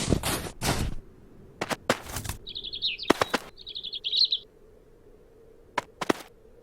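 Cartoon sound effects: a few rustling, flapping noise bursts, then a short chirping bird twitter about three seconds in, with some sharp clicks.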